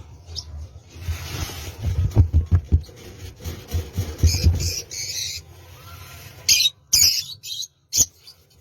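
Birds calling, with a few short, sharp, loud calls about six and a half to eight seconds in, over a low rumble and thumps during the first five seconds.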